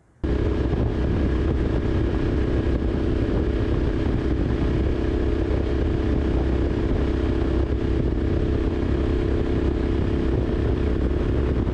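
Triumph Street Scrambler's 900 cc parallel-twin engine running steadily at highway cruising speed. It starts abruptly just after the opening.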